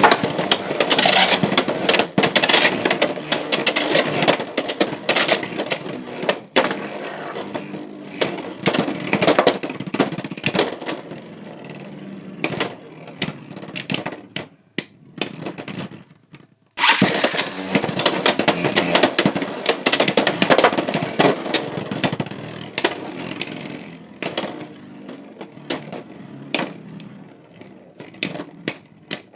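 Beyblade X battles in a plastic stadium, Fox Brush J9-60 Low Rush against Impact Drake 4-60R: spinning tops hit each other and the stadium with fast clicking and clattering that thins out as they slow down. After about a second of quiet in the middle, a second battle starts with a loud launch and a new burst of clashing.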